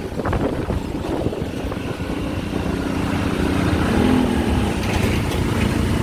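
Motorbike engine running on the road while riding, with steady road rumble and wind on the microphone.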